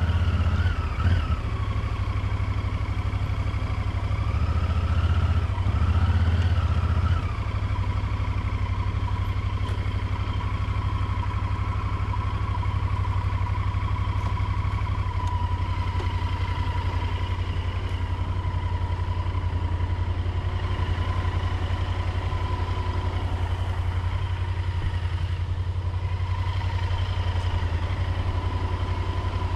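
Motorcycle engine running at low revs, pulling along slowly with the revs rising and falling for the first seven seconds or so. It then settles to a steady idle.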